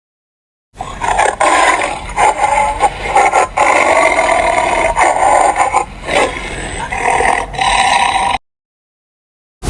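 An animal calling repeatedly in loud, rough, uneven pulses, with dead silence for most of a second at the start and again for about a second near the end.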